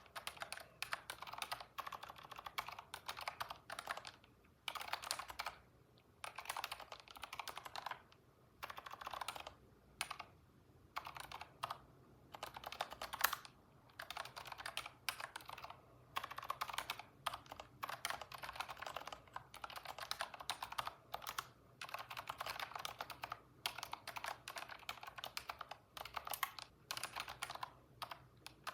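Computer keyboard typing: rapid keystrokes in bursts of a few seconds, broken by short pauses.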